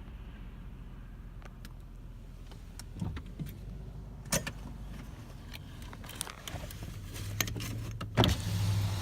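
Car idling with a steady low hum, broken by scattered clicks and knocks. A low hum grows louder over the last couple of seconds, with a sharp knock just before the end.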